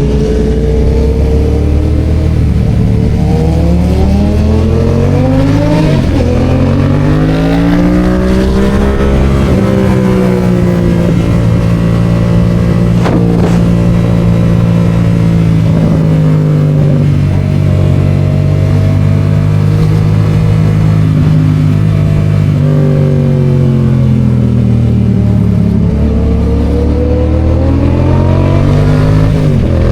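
Yamaha FZ-07's 689 cc parallel-twin engine under way, climbing through the revs over the first several seconds, holding a steady cruise, then easing off about two-thirds of the way through before picking up again near the end. One short click near the middle.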